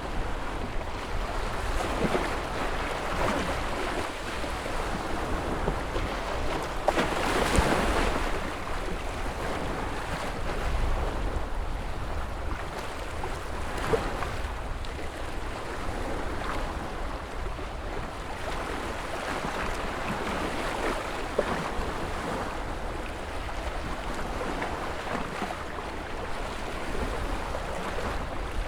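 Ocean surf: a continuous rush of waves breaking and washing in, swelling and ebbing, with one louder wave crash about seven seconds in.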